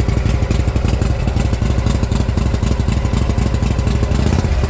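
Motorcycle engine idling close by, a loud, steady, rapid low pulsing.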